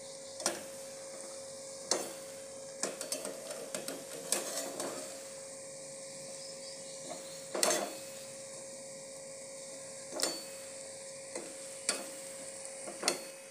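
Balushahi dough rounds deep-frying in oil in an aluminium pan with a steady sizzle. A metal slotted skimmer clinks and scrapes against the pan about ten times as it turns them, loudest a little past halfway.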